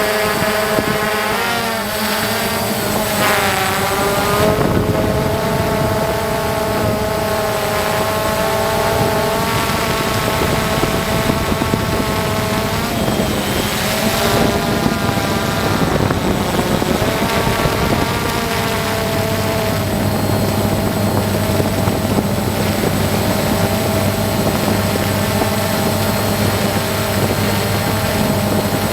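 A motor running continuously, its pitch drifting up and down every few seconds, with a steady low hum joining about two-thirds of the way in.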